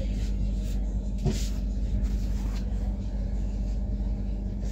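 Steady low rumble with a constant hum, typical of a train.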